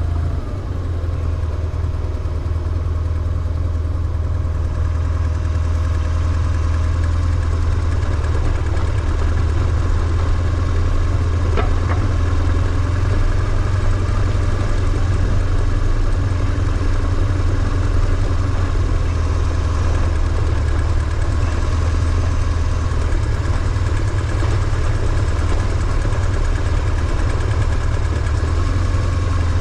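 BMW R1150GS flat-twin boxer engine running steadily with a deep, even note that holds one speed throughout, with no revving.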